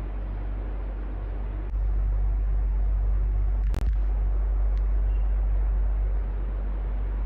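Electric fan running steadily, a constant whirring hiss over a low rumble. The rumble swells louder about two seconds in and settles back near the end, with one brief click and dropout in the middle.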